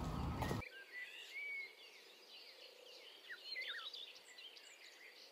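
Small birds chirping and twittering, many short rising and falling calls over a quiet background. Louder outdoor noise cuts off abruptly about half a second in.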